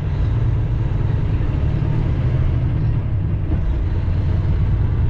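Semi truck's diesel engine running steadily with road rumble, heard from inside the cab as the truck rolls at low speed.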